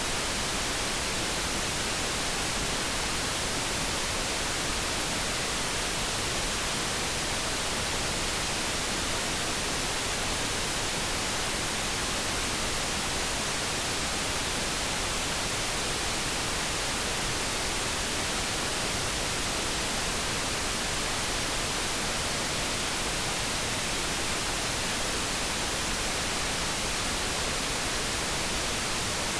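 Steady, unchanging hiss of generated background noise, even throughout, with no kettle tone or other event standing out.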